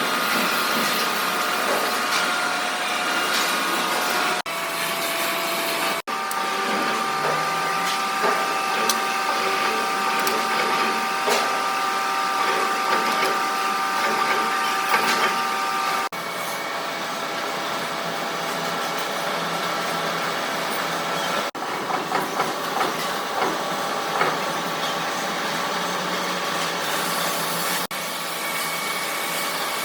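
Steady running shop machinery with a whine of several tones, noise and small scattered ticks, breaking off and changing abruptly several times.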